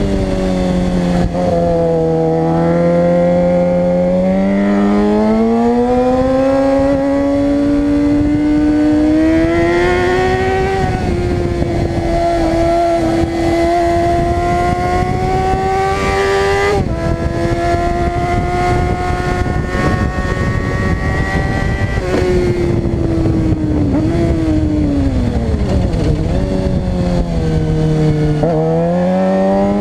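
Suzuki GSX-R600 inline-four engine under hard use: revs climb over the first ten seconds, hold high for a long stretch with one sharp break about halfway through, then fall away and climb again near the end. A steady rush of wind noise lies under it throughout.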